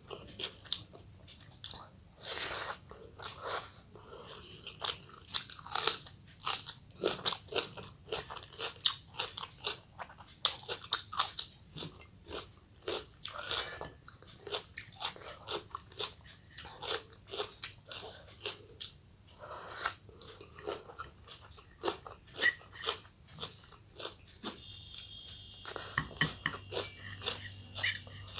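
A person chewing and biting food close to the microphone, with irregular crunching bites and mouth clicks. A faint steady high-pitched tone joins near the end.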